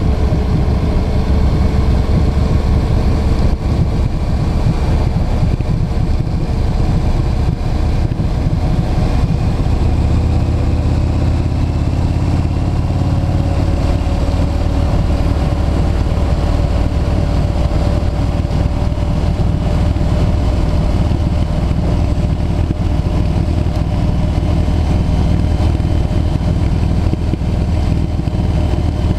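Motorcycle riding on the road, with a heavy low rumble of wind on the microphone over the engine; the engine's tone climbs slowly in pitch partway through, then holds steady.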